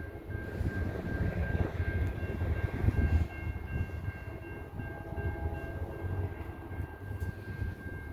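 NJ Transit Atlantic City Line train running by, a low uneven rumble with steady high-pitched tones held over it.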